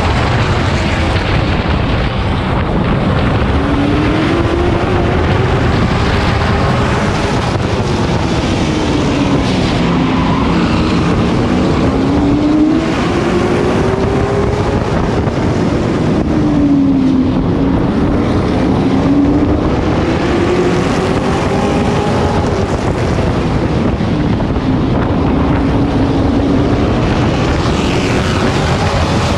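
Race truck's engine heard on board under racing load, its pitch climbing and falling again every few seconds as the driver accelerates and lifts lap after lap on a short oval, with wind and road noise.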